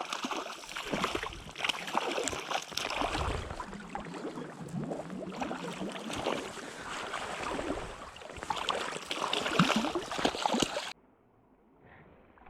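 Creek water splashing and sloshing with irregular knocks as a hooked trout is played and landed. About eleven seconds in, the sound drops abruptly to much quieter.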